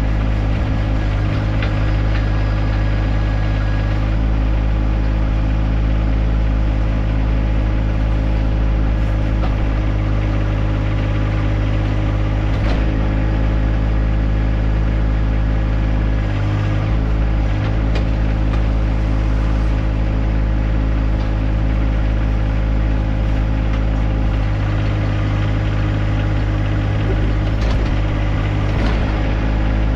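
John Deere 1025R compact tractor's three-cylinder diesel engine running steadily at constant speed, with a few sharp knocks scattered through.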